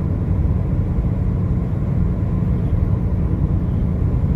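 Steady low rumble of a car driving at road speed: tyre and engine noise at an even level.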